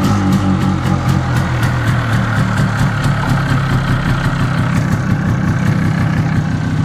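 MZ ETZ 250 motorcycle's single-cylinder two-stroke engine idling steadily, with an even pitch and no revving.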